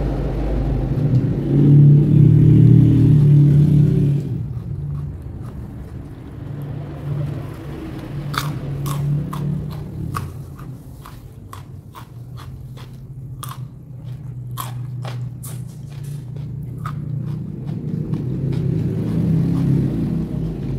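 Close-miked chewing of crunchy raw food. There is a loud, low, muffled chewing for the first few seconds, then a run of sharp, crisp crunches through the middle.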